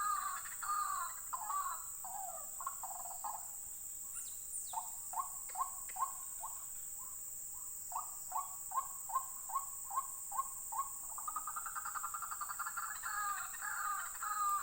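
White-breasted waterhens calling: runs of short, repeated call notes, about two to three a second in the middle, then overlapping calling near the end. A steady high-pitched drone runs underneath.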